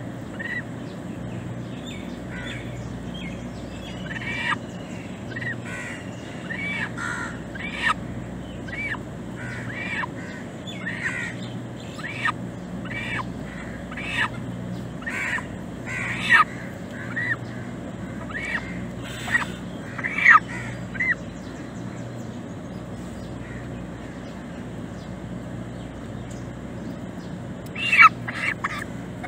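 Birds calling: many short, separate calls, thicker through the middle, then a pause of a few seconds and a louder cluster near the end, over a steady low hum.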